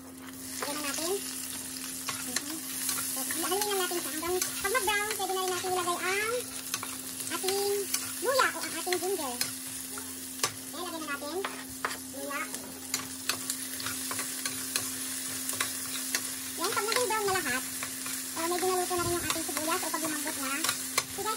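Garlic and sliced onion sizzling in hot oil in a stainless steel skillet while a metal spoon stirs and scrapes them around the pan.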